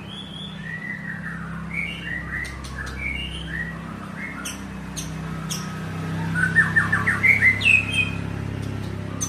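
White-rumped shama singing a varied string of clear whistled phrases and pitch glides, with a few sharp clicks midway and a fast burst of repeated notes about six to seven seconds in. A steady low hum runs underneath.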